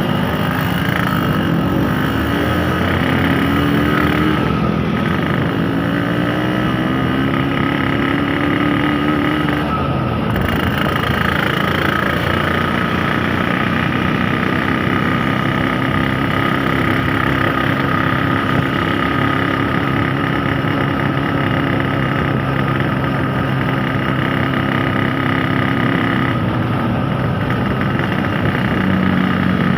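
Yamaha RX King 135 cc two-stroke single-cylinder motorcycle engine running under way, its pitch rising twice in the first ten seconds and then holding steady.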